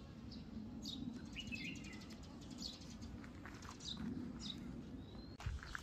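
Small birds chirping: scattered short, high chirps a second or so apart, mostly quick falling notes with one brief warble and one short rising note, over a faint low hum. A single soft knock near the end.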